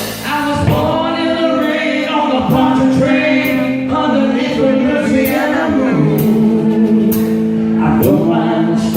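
A live band playing a song, with voices singing over bass and drums, the cymbals keeping a steady beat.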